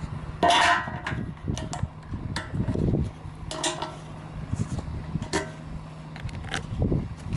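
Honda Rebel 250's parallel-twin engine idling with a steady hum, which the seller describes as free of abnormal noise, while metallic clinks and clatter sound over it, the loudest about half a second in and another about three and a half seconds in.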